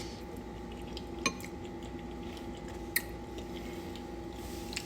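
Two sharp clinks of an eating utensil against a dish, about a second in and again about three seconds in, over a steady low hum.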